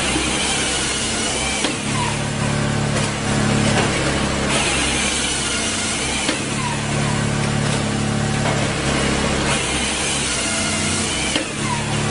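RCA-400Joy firewood processor running under its engine, working in a repeating cycle about every four to five seconds. Each cycle brings a heavier engine note and a burst of rushing noise.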